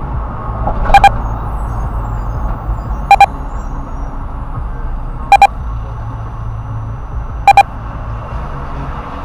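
Pairs of short electronic beeps repeating about every two seconds, loud over the low rumble of a car's engine and road noise.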